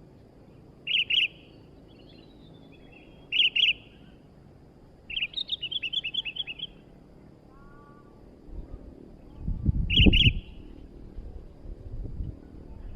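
Sooty-headed bulbul (kutilang) calling in loud, short double chirps, with a quick run of about nine chirps in the middle. A low rumble rises in the second half and is loudest around the last double chirp.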